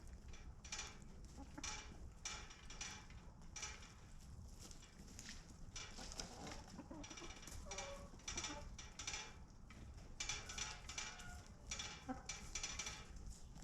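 Chickens clucking and calling in a run of short calls, one after another with brief gaps.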